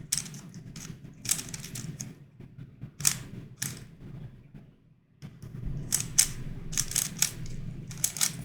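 Plastic YuXin Corner Helicopter 2x2 puzzle being turned quickly by hand: bursts of clicking and clacking from its layers and pieces, with a short pause a little past halfway.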